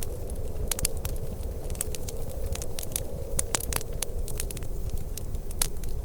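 Wood fire crackling in a fireplace: many sharp, irregular pops and snaps over a low, steady rumble.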